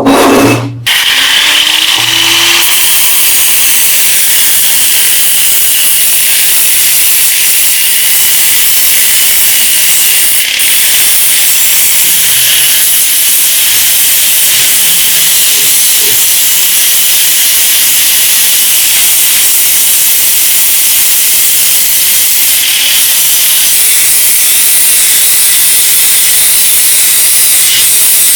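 Compressed-air tool hissing steadily and loudly without a break, the sound sitting mostly in the high register.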